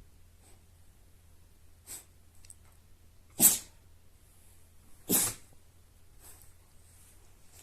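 Siberian husky sneezing: two sharp, loud sneezes about a second and a half apart, after a fainter short one.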